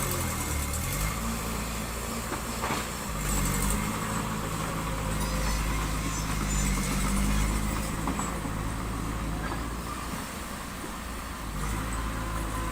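Diesel engine of heavy construction machinery, a bulldozer or dump truck, running under changing load, its engine speed rising and falling several times and easing off near the end. A single knock about three seconds in.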